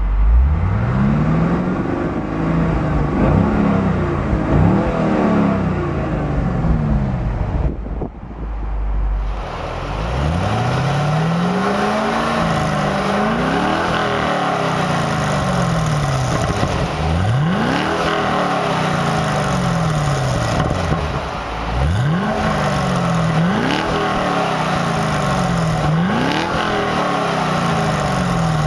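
Chevrolet Camaro SS's 6.2-litre V8 revved repeatedly at standstill through its dual exhaust, first heard from inside the cabin and then from behind the car. The pitch climbs and falls again and again, mixing long pulls with quick, sharp blips of the throttle.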